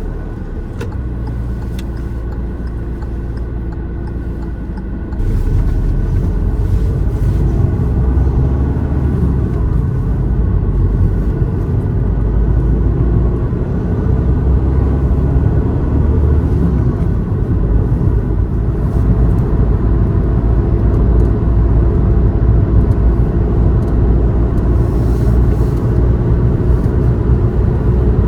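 Car driving, its engine and tyres giving a steady low rumble that gets louder about five seconds in.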